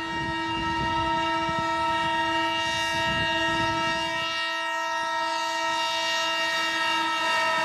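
Train horn blowing one long, steady blast that sags slightly in pitch right at the end. The train's low running rumble sits underneath in the first half.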